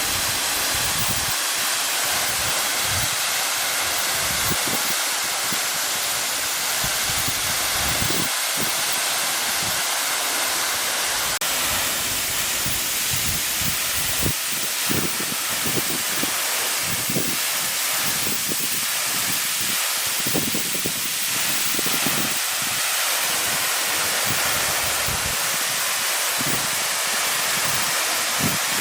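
Steady rush of falling water from a tall vertical waterfall, with irregular low thumps underneath.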